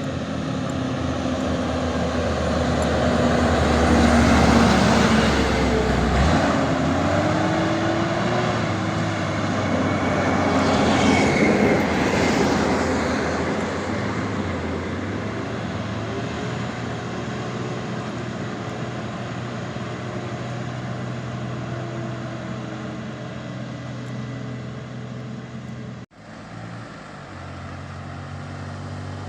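Truck diesel engine running hard under load on a steep climb, its pitch rising and falling as it revs, loudest in the first half; the sound cuts off abruptly for a moment about 26 seconds in, then resumes.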